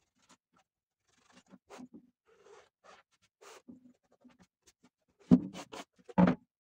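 Hand work on a wooden chair: a series of short, irregular scraping and rubbing strokes, then two louder knocks near the end.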